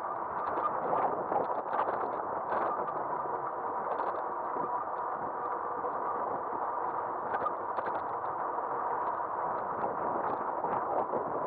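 An Aostirmotor S17 e-bike riding on pavement, picked up by a camera mounted on its front end: a steady hiss of riding noise with a faint steady whine and frequent small clicks and rattles.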